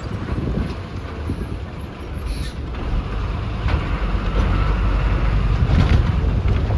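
Bus on the move, heard from inside the cabin: a steady low engine rumble and road noise, getting louder about halfway through.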